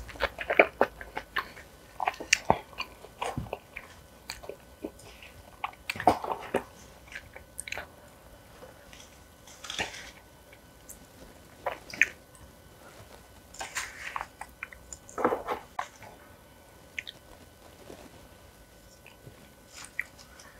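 Close-miked eating sounds: a person biting and chewing food, with crisp crunches and wet clicks coming in irregular bursts that grow sparser near the end.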